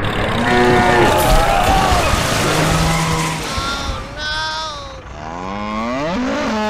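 Cow mooing, several drawn-out calls that rise and fall in pitch, over a steady rushing noise.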